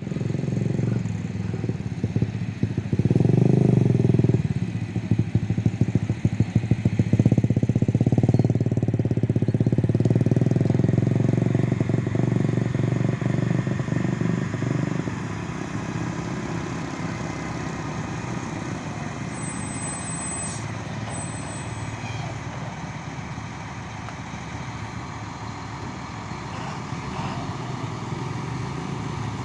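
Heavy diesel machinery engine running. It is louder and uneven, as if revving under load, through the first half, then settles to a steadier, lower run.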